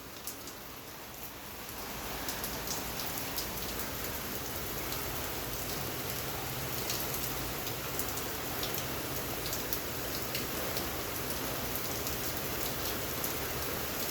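Rain falling steadily, with scattered sharper drop hits; the downpour swells louder about two seconds in and then holds steady.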